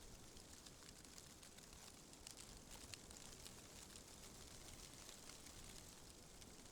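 Faint rustling of tree leaves in the wind: a soft, steady hiss dotted with many small ticks.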